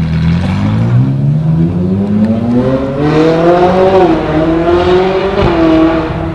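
Ferrari 458 Italia's 4.5-litre V8, fitted with what the owner takes for a non-stock exhaust, accelerating hard as the car pulls away: the engine note climbs steadily, dips briefly about four seconds in as it shifts up, climbs again, then drops to a steadier note near the end.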